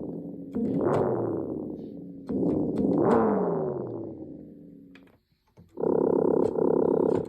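Yamaha DX7 FM synthesizer playing voices from the VRC-105 cartridge. Two long swelling notes have tones that slide in pitch as they die away. After a brief gap, a different, steady patch plays short repeated chords.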